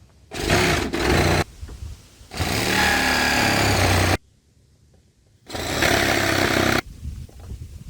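Electric jigsaw cutting a window opening through a box truck's door, running in three bursts that start and stop abruptly.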